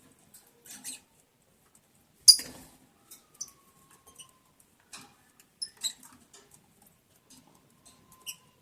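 Pet lovebirds moving about their cage: scattered short high chirps and scratchy clicks, the loudest a sharp click a little over two seconds in.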